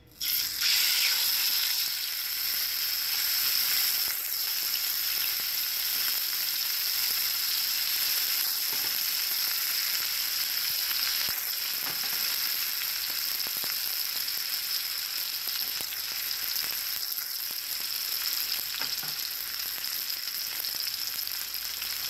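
Marinated chicken laid into hot oil in a nonstick frying pan, bursting into a loud sizzle the moment it goes in. It then settles into a steady frying sizzle with scattered small crackles as it sears on the first side.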